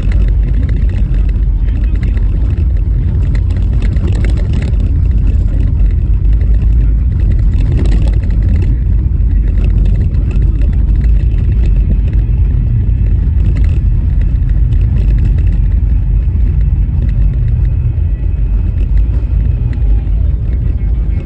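Car driving on a rough, snow-covered road: a loud, steady low rumble of tyres and suspension, with a few sharper knocks from bumps.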